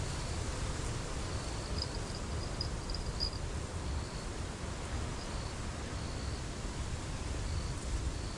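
Strong wind buffeting the microphone: a steady rush with a gusty low rumble. Short, high insect-like chirps come and go over it, busiest around two to three seconds in.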